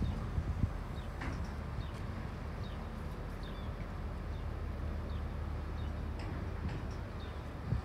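Outdoor ambience: a steady low rumble with faint, short bird chirps every second or so.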